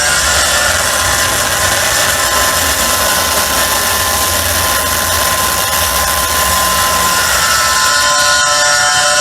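Harsh noise music played live: a loud, unbroken wall of distorted electronic noise over a low rumble, with thin steady tones that drop out in the middle and come back near the end.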